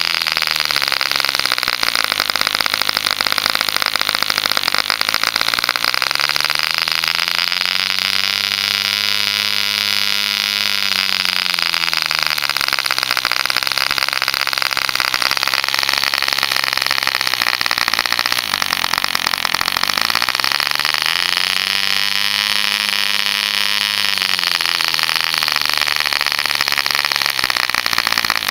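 Mills 0.75 cc model diesel engine, a homemade copy with a contra-piston, running at high speed with a strong hiss over its note. Twice its pitch climbs smoothly and sinks back again, about a third of the way in and again about three quarters through.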